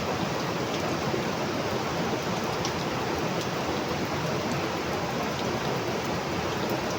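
Heavy rain falling steadily: an even, dense hiss with a few faint, scattered drop ticks.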